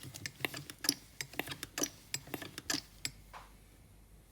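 Hand pressure pump being worked in quick strokes, a run of sharp irregular clicks for about three seconds that then stops. It is pushing air into a diesel DPF vaporiser unit and pressure builds because the vaporiser is blocked with soot and carbon.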